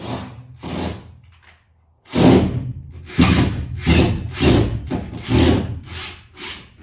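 Power drill backing a screw out of a wooden board, in a quick run of short bursts about two a second with wood rubbing and rattling.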